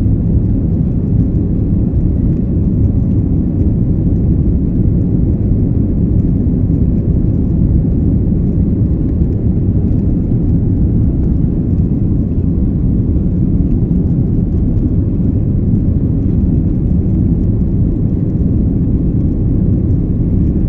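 Airbus A330-300 cabin noise during the climb after takeoff: a steady low rumble of engines and rushing air, unchanging throughout.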